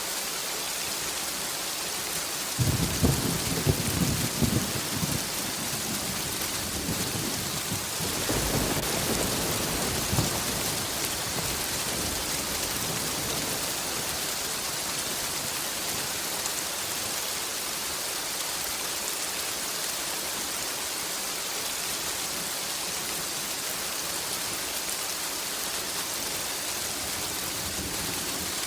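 Steady rain hissing throughout, with thunder: a sudden low rumble about two and a half seconds in, then a second rolling rumble around eight seconds that fades out, leaving rain alone for the rest.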